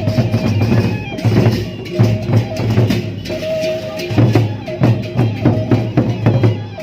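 Gendang beleq ensemble playing: large drums beating a busy rhythm with cymbal clashes, under a suling flute holding long notes that step between a few pitches.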